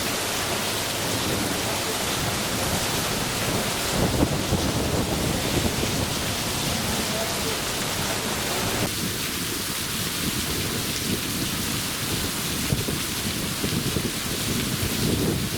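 Steady heavy rain, with low rumbles of thunder swelling about four seconds in and again near the end.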